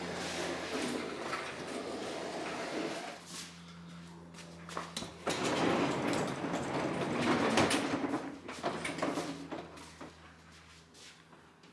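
Knocks, clatter and scraping of things being shifted about, loudest in a stretch about halfway through, over a faint steady hum.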